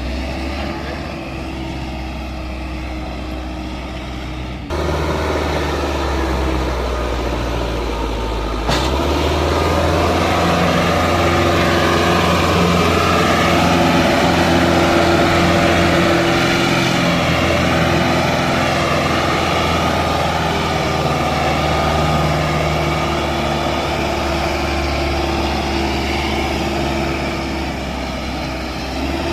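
Solis tractor's diesel engine running steadily, its note and loudness changing abruptly about 5 seconds in and again about 9 seconds in.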